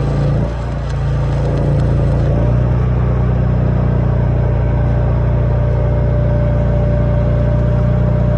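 An engine running steadily, its low note shifting slightly about two seconds in.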